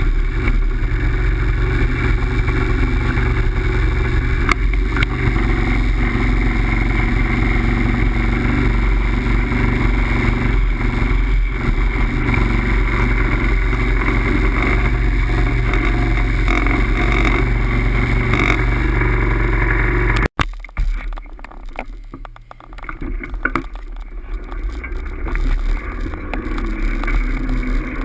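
Steady rumble and rushing noise of a ride in motion. It cuts off abruptly about 20 seconds in and comes back quieter and gusty, building up again toward the end.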